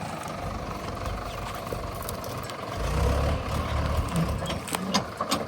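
Diesel engine of heavy farm or construction machinery running, its low rumble swelling for about a second roughly three seconds in, with a few sharp clicks near the end.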